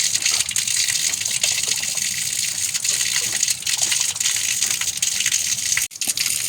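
Steady rushing water, a constant hiss with no break except a brief dropout near the end.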